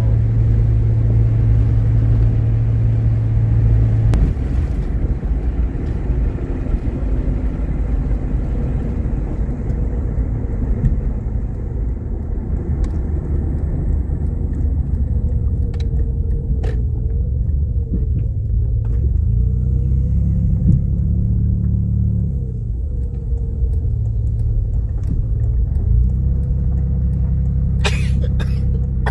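Engine and road rumble of a moving car, heard from inside the cab, its pitch shifting as the vehicle speeds up and slows, with a few sharp clicks about halfway and near the end.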